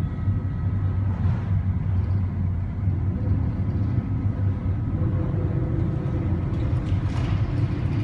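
Steady low rumble with faint constant humming tones above it, the kind of wind-and-machinery noise recorded aboard a ship in heavy weather.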